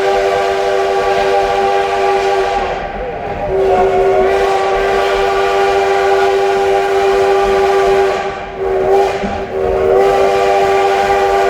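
Steam locomotive's chime whistle blowing a grade-crossing signal: the end of a long blast, another long blast, a short one, then a long one, several notes sounding together as one chord.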